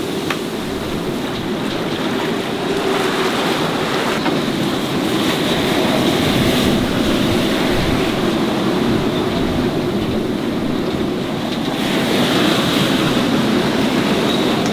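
Strong wind over a sailing yacht at sea, with waves rushing past the hull and wind buffeting the microphone. The noise swells twice, about halfway through and again near the end.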